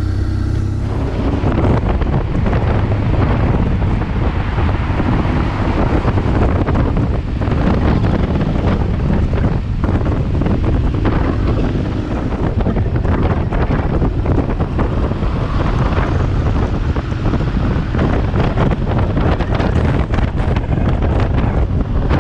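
Wind buffeting the microphone of a motorcycle riding at speed: a loud, steady rush with constant fluttering.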